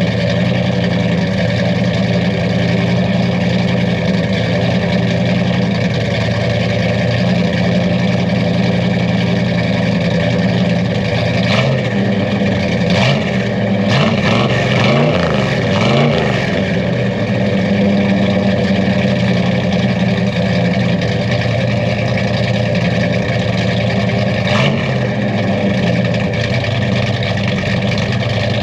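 Ford 400 V8 in a 1980 F-150 running shortly after a cold start, a steady idle with the engine speed wavering up and down briefly around the middle. The engine still has an exhaust leak.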